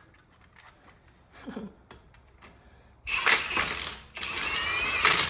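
Two bursts of rapid mechanical ratcheting, about a second each, starting about three seconds in: a clamp being tightened on the rubber boot of the steering rack.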